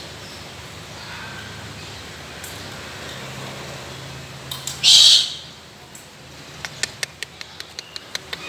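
A peacock gives one loud, short call about five seconds in. A run of sharp clicks follows near the end.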